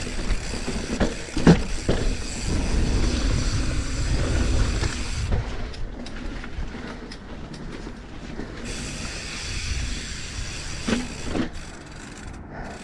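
Mountain bike clattering and rattling as it rides down a rocky technical trail section, its frame, chain and tyres knocking over rock. There is a continuous low rumble, with sharp knocks about a second and a half in and again near the end.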